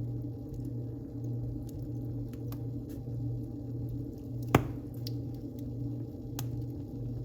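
Wood fire burning in a fireplace: a steady low rumble of flames with scattered small crackles, and one sharp, loud pop about four and a half seconds in.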